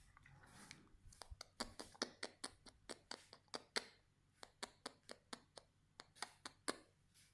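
An irregular series of light, sharp clicks and taps, several a second, with short pauses between runs.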